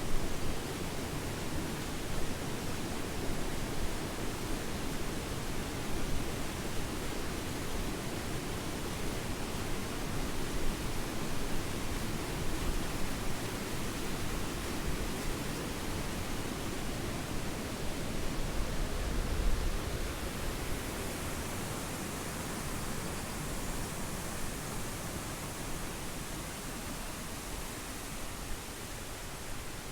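Steady rush of the Triberg waterfall's cascading water, an even roar with no pauses that eases a little over the last several seconds.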